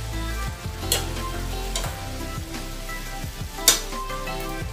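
Chicken pieces sizzling as they brown in a frying pan and are stirred, with a few sharp knocks of the utensil against the pan, under background music.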